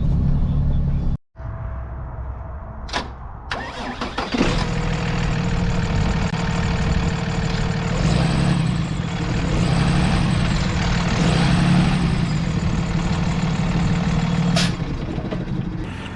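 Diesel engine of a Peterbilt 337 box truck being started: a couple of clicks, then the engine catches about four seconds in and settles into a steady idle.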